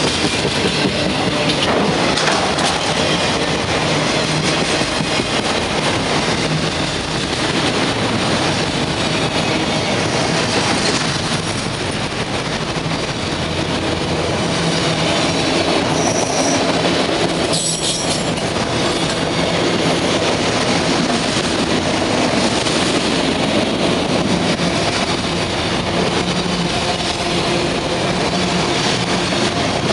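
Norfolk Southern freight train cars rolling past, a steady rumble and clatter of wheels on rail. A couple of brief high wheel squeals come just past halfway.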